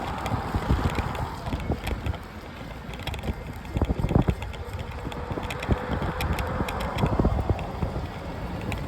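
Wind buffeting the microphone and low rumble while riding a bicycle, with scattered clicks and knocks from the bike.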